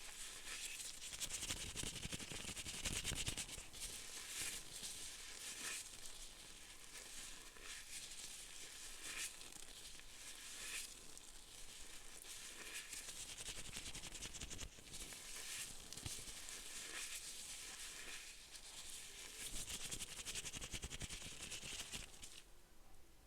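Close-miked crinkling and scratching ASMR sounds: a dense, unbroken run of fine crackles with a few stronger strokes now and then.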